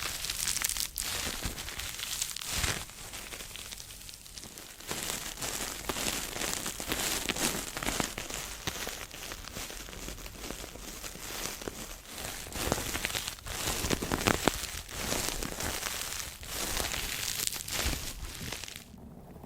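Close-up crinkling and crackling, a dense run of fine crisp crackles that swells and eases, as of something being handled or crumpled close to the microphone; it cuts off abruptly near the end.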